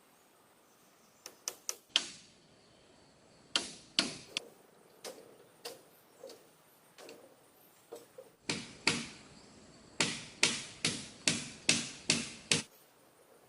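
A series of sharp chopping blows on wood, each with a short ringing tail. A few come early, scattered strikes follow, then a quick run of about seven blows, roughly two a second, near the end.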